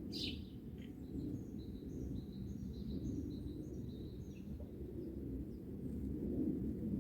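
Songbirds singing: a sharp high call right at the start, then a run of short high chirping notes for about four seconds, over a steady low background rumble.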